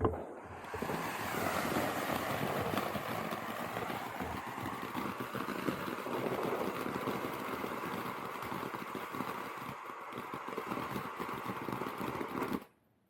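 Consumer firework going off: a dense, steady hissing crackle for about twelve seconds that cuts off abruptly near the end.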